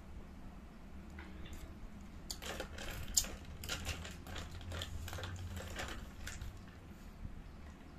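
Eating fried chicken by hand: irregular clicks of chewing and lip-smacking, clustered in the middle few seconds over a faint low hum.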